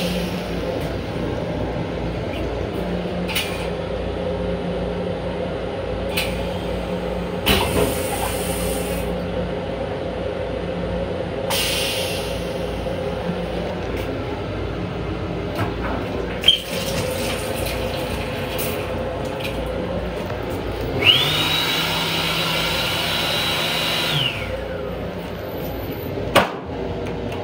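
Long Island Rail Road M7 electric railcar running, heard inside its restroom: a steady hum and rumble with occasional knocks and rattles. About two-thirds of the way in, a high whine rises, holds for about three seconds, then fades away.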